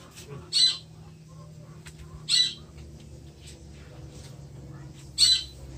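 Three short, sharp bird calls, the first about half a second in, the next near the middle and the last near the end.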